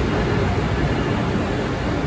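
Amtrak Acela trainset rolling past along a station platform: a steady rumble of wheels on rails, with a noisy hiss over it.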